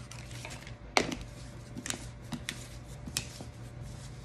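A few sharp knocks and clicks of containers being handled while a protein shake is poured together, the loudest about a second in, over a steady low hum.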